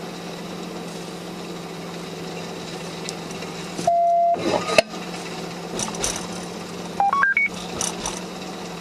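Police radio beeps over a steady vehicle-cabin hum: one held beep about four seconds in, then a quick run of four short tones stepping up in pitch about seven seconds in.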